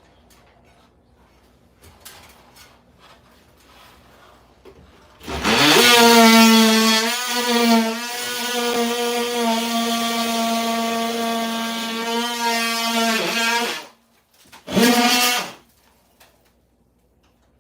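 Handheld power tool's electric motor spinning up with a rising whine, running steadily for about eight seconds and stopping, then a second short burst. Faint clicks and knocks are heard before it starts.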